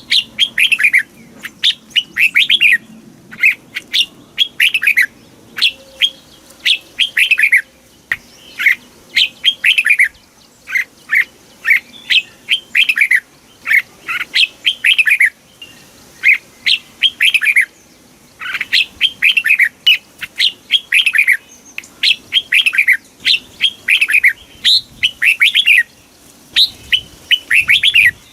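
Red-whiskered bulbul singing: short, loud phrases of quick downward-sliding whistled notes, repeated over and over with brief pauses between them.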